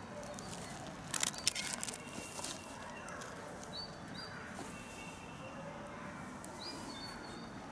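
Outdoor ambience: a steady background hiss with a few short, high bird chirps, twice in pairs. About a second in there is a brief burst of clicks and rustling.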